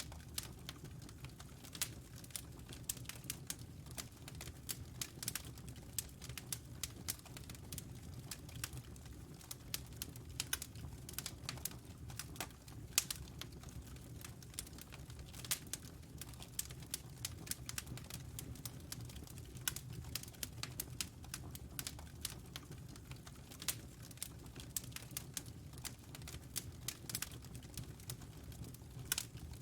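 Wood fire burning in a fireplace: irregular sharp crackles and pops, several a second, over a steady low roar of the flames.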